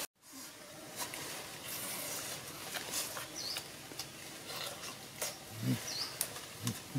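A man chewing cooked pig intestines: wet smacking clicks, then from near the end low chomps about twice a second. Two short, high bird chirps sound in the background.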